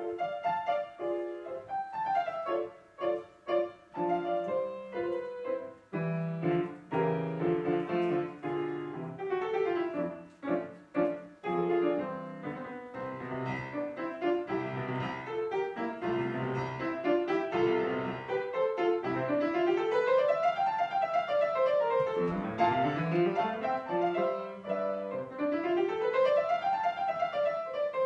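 Piano playing a classical piece: short, separate notes and chords at first, then quick scale runs sweeping up and down in the second half.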